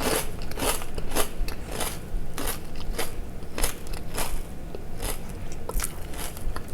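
Crunching of a person chewing a deep-fried crispy rice cracker: a steady run of sharp crunches, about two a second.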